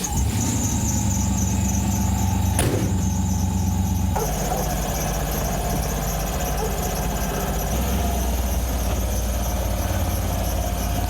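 Cab-over ramp truck's engine running just after starting, with a steady high-pitched squeal over it. The engine note changes about four seconds in.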